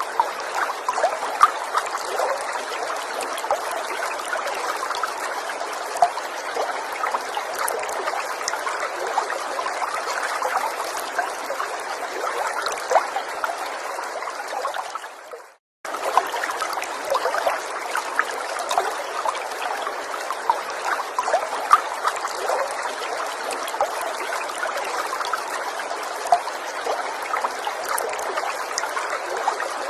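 Gentle water stream trickling steadily, with many small splashes. About halfway through it fades out to a moment of complete silence and then comes straight back.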